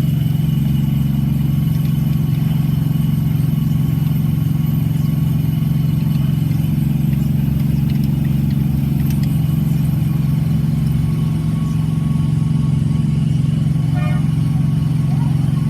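A car engine running steadily at idle, a constant low hum that does not change in pitch or level.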